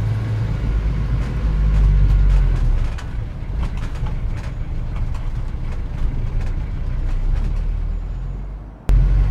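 Added sound-design ambience of a motor vehicle's low, steady engine rumble, with scattered clicks over it. The rumble fades away toward the end, then a louder rumble cuts in suddenly.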